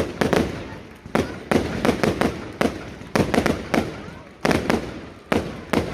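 Fireworks going off in quick succession: a dense run of sharp bangs, several a second in clusters, each trailing off.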